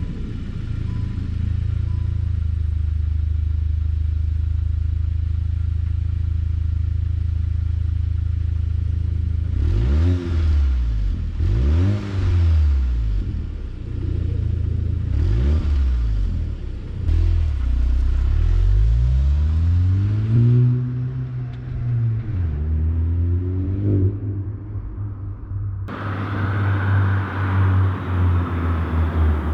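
VW MK8 GTI's 2.0-litre turbocharged four-cylinder idling through an X-Force cat-back exhaust with the stock resonator kept, then revved about five times, each rev rising and falling back to idle. Near the end the sound changes abruptly to a lower engine note with a hiss.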